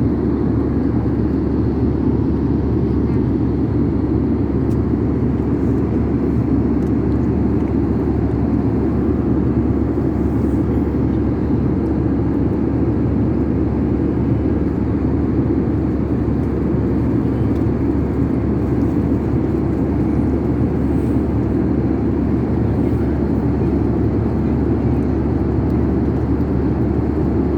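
Steady cabin noise of an airliner in flight: an even, low rush and hum from the engines and airflow.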